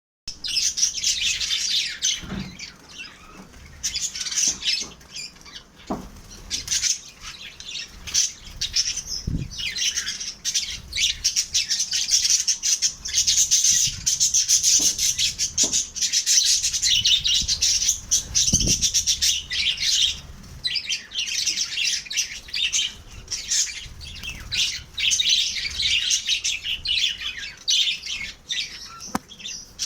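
Pet lovebirds chattering: a continuous, dense stream of high-pitched chirps and squawks from several birds, with a few short low thumps scattered through it.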